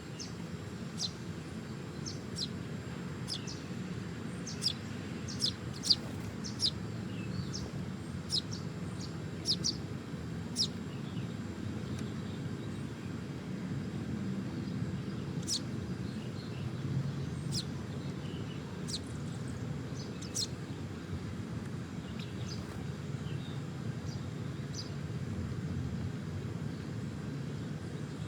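Small birds chirping: short, sharp, high chirps, many in quick succession during the first ten seconds and more scattered after that, over a steady low background rumble.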